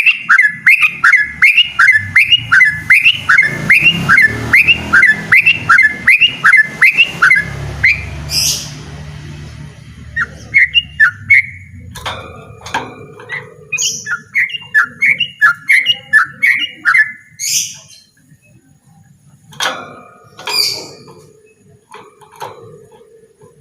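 Yellow-vented bulbul singing a long, fast rolling song of repeated slurred notes, about two a second, ending in a high upward sweep about 8 s in. A second run starts about 11 s in and ends in another sweep, then scattered single calls follow. A low rumble runs under the first half.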